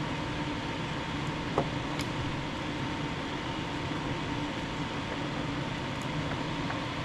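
Steady hum of a fan running, with a few faint small clicks over it.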